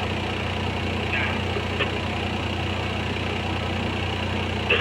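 Heavy diesel engine running steadily at a constant low hum, with a light click about two seconds in.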